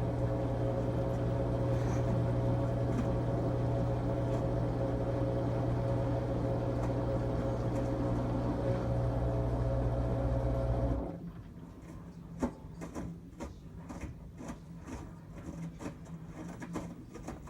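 13-year-old LG Tromm WD-CR101C front-loading washing machine on a quick-wash cycle. A steady machine hum cuts off abruptly about eleven seconds in, leaving quieter, irregular light clicks and taps.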